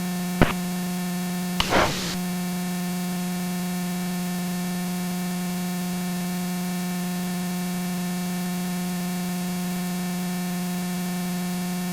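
Steady hum with hiss on an aircraft's radio and intercom audio, one unchanging low tone with evenly spaced overtones. A short click comes about half a second in, and a brief burst of radio noise comes at about two seconds.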